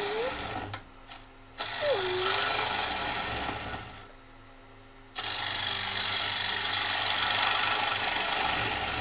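Bowl gouge cutting the inside of a cherry bowl spinning on a Laguna Revo 1836 lathe: scooping passes, three in all with short pauses between, the last the longest, over the steady hum of the running lathe.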